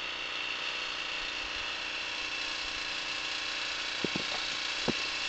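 Engine idling steadily, with a few faint clicks about four seconds in.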